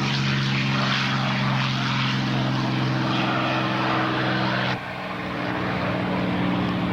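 P-51 Mustang's V-12 engine and propeller droning steadily in flight, with a sudden step down in level and tone about two-thirds of the way through.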